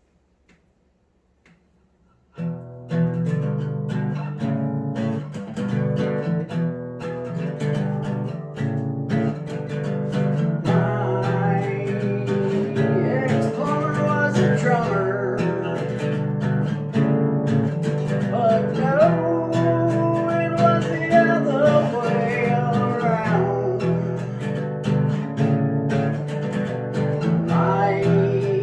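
Guitar music. Strummed guitar chords start suddenly about two seconds in, with a bending melody line above them from about ten seconds on.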